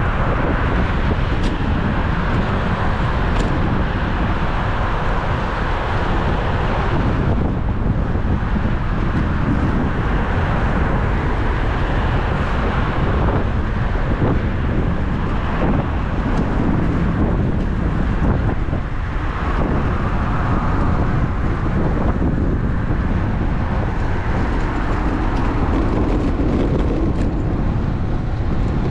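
Steady wind noise on an action camera's microphone while riding a road bike, mixed with tyre and traffic noise.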